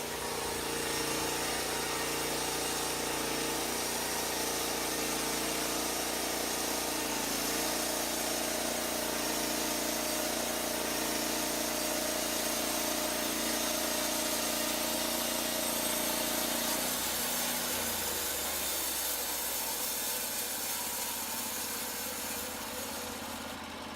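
Portable band sawmill at work: a steady engine drone with the band blade cutting through a log. The pitched hum shifts about seven seconds in and fades out around seventeen seconds, leaving a rougher noise.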